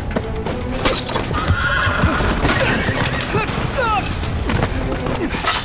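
A horse whinnying over background music.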